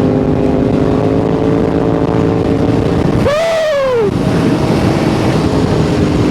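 Sport-bike engine running steadily at cruise under loud wind rush on a helmet-cam mic. About three seconds in the engine note jumps up and falls away over about a second, then settles back to a steady drone.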